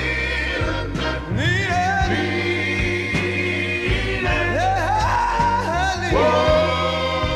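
Gospel group singing with band accompaniment: voices slide up into long held notes over a steady bass line.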